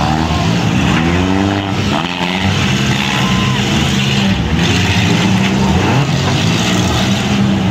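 Several compact-car engines in a demolition derby running and revving at once, their pitches rising and falling against one another.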